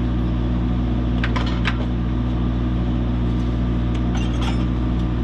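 An engine idling steadily, with a few light metal clinks of tools and hardware about a second in and again near the end.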